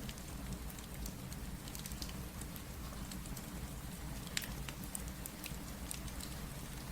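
Steady rain with a wood fire crackling: an even hiss and low rumble, with scattered small crackles and one sharper crack about four seconds in.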